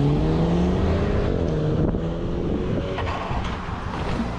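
Motorcycle engine pulling away, its pitch rising steadily for the first second or so, then levelling off, with wind noise on the microphone.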